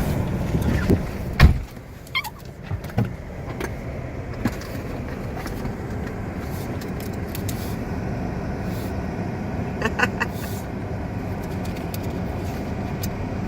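Strong blizzard wind rushing loudly. About a second and a half in there is a single thump, after which the wind is lower and steady. A few short squeaks come later.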